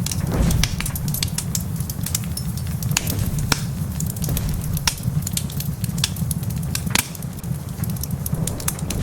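Wood fire crackling in a fireplace, with frequent irregular sharp pops over a steady low rumble.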